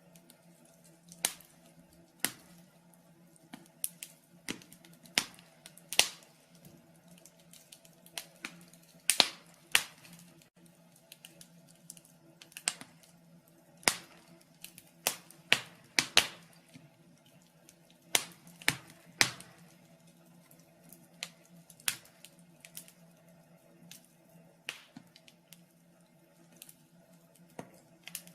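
Wood fire crackling in a fireplace: irregular sharp pops and snaps, about one or two a second and uneven in loudness, over a faint steady low hum.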